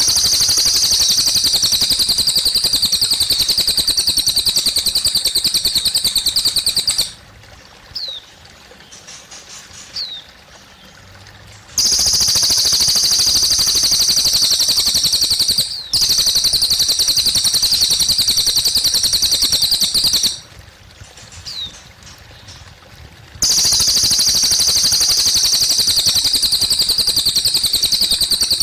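Cililin bird singing long, very fast, high-pitched trills of several seconds each, three times over. Between trills come short pauses with a single quick down-slurred note or two. Water trickles softly underneath.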